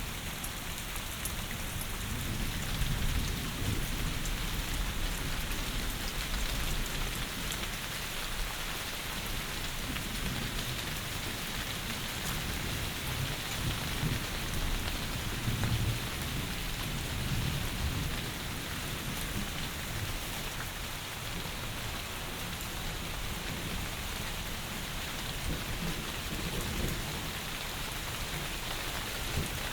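Heavy rain pouring steadily, a dense even hiss, with low rumbles swelling and fading during the first half or so.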